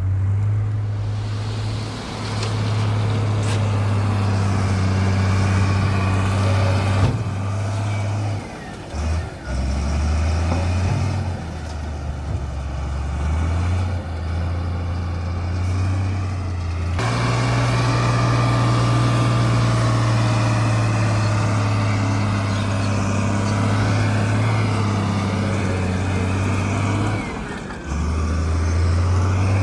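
A bulldozer's heavy diesel engine running steadily, its low note stepping abruptly to a different pitch several times.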